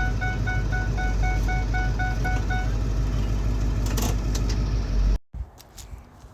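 Ford 7.3 Powerstroke turbo diesel V8 running with a deep exhaust rumble through an oversized 10-inch exhaust tip, heard from inside the cab. A rapidly repeating electronic chime sounds over it until nearly halfway through. The engine sound cuts off suddenly about five seconds in, leaving faint clicks.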